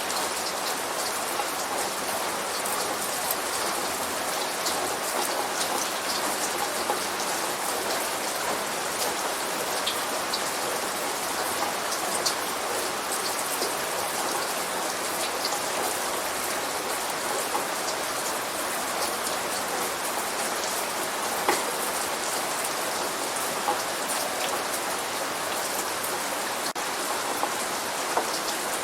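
Steady light rain falling, a constant hiss with many individual drops ticking on a hard surface; no thunder is heard.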